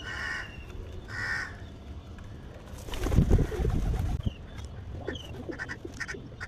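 Crows cawing twice, short harsh calls, then a loud rustling burst about three seconds in, followed by a few short chirps and ticks.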